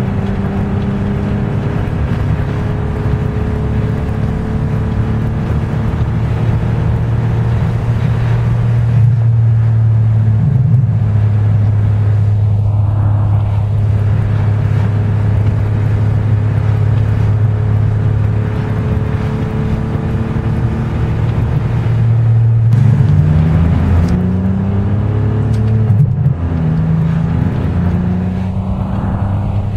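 Ferrari 575 Maranello's V12 engine heard from inside the cabin while driving, running at a steady pitch over road noise. About two-thirds in, the pitch climbs twice in quick succession, as when accelerating through the gears, then settles back to a steady run.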